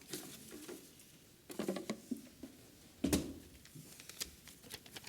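Faint scattered rustles and light clicks in a hall, with a sharper knock about three seconds in.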